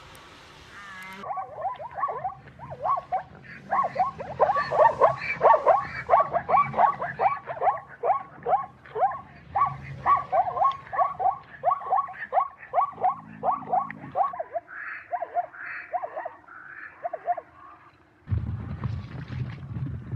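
An animal calling over and over in short, quick, falling calls, several a second, with the calls thinning out later on. Near the end it cuts to a different, lower animal sound.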